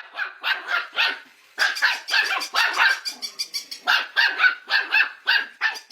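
A dog barking rapidly and high-pitched, about three barks a second, in three quick runs with short pauses between them.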